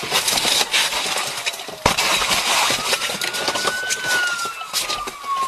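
Police siren wailing, its pitch rising a little around three seconds in and then falling slowly, over a rushing noise full of knocks and rattles, with one sharp knock about two seconds in.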